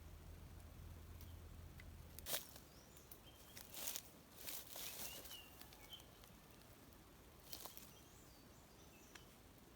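Quiet forest ambience with faint bird chirps. A low hum cuts off with a sharp click about two seconds in, followed by a few brief rustling handling noises and another click.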